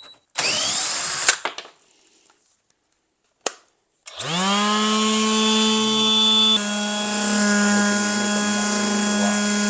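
Cordless DeWalt 20V drill running on a 6.0Ah replacement battery. After a short burst of noise and a click, the motor spins up with a rising whine and runs steadily at full speed for about five and a half seconds, its pitch shifting slightly partway through, then stops abruptly.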